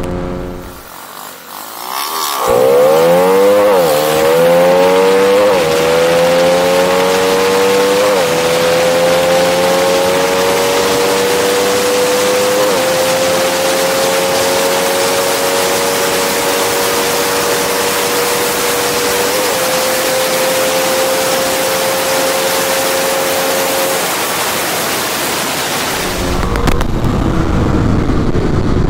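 Honda RS150 underbone's single-cylinder engine accelerating hard up through the gears. Its pitch climbs, with a brief dip at each of five upshifts, and each higher gear climbs for longer. The engine note drops away near the end, leaving wind rushing over the microphone.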